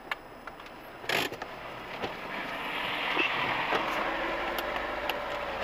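A short sharp knock about a second in, then the car's driving noise, engine and tyres, growing steadily louder.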